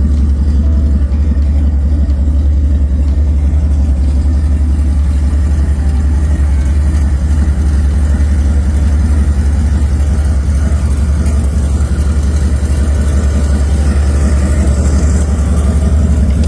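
Car engine running at a steady idle with a deep exhaust rumble.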